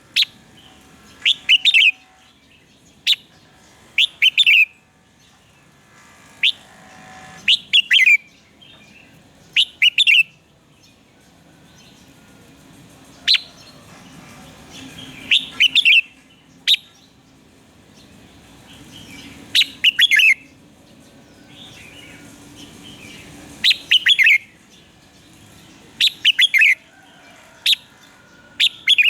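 Red-whiskered bulbul singing loud, short phrases of a few quick sweeping notes, one every second or two, with a few longer pauses between them.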